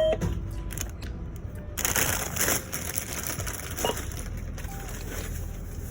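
Items being handled and bagged at a store checkout, with crinkly rustling about two seconds in and a light click near the end. The last of a run of checkout scanner beeps sounds right at the start.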